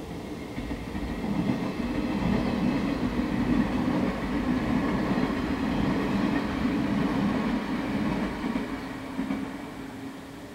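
Electric passenger train passing along the track: a steady rumble that builds over the first couple of seconds, holds for several seconds, then fades away near the end.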